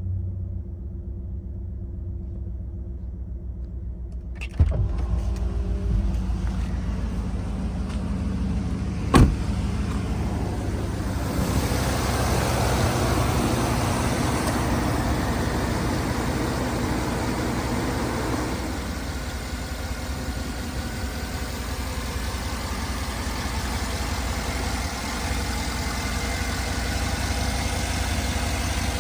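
Cadillac Escalade V8 running. The sound jumps up suddenly about four and a half seconds in, a single sharp knock comes near nine seconds, and it runs louder for several seconds before settling into a steady idle.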